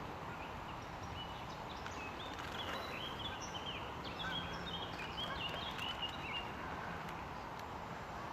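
Small birds chirping, a quick run of short, high notes for a few seconds in the middle, over a steady outdoor background hiss.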